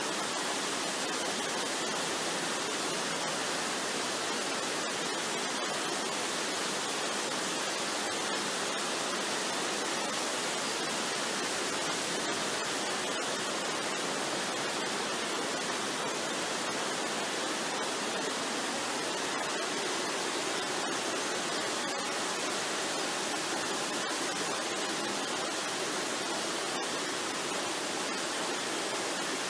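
Waterfall, water rushing in a steady, unbroken wash of noise.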